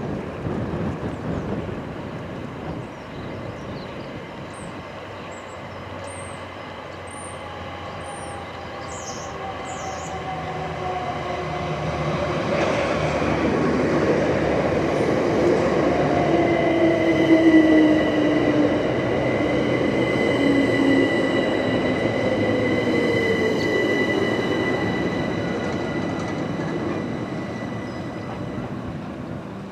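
Southern Class 377 Electrostar electric multiple unit approaching and running past, growing louder to a peak around the middle and then fading. Its electric traction equipment whines in several tones that glide downward, over a steady high-pitched squeal.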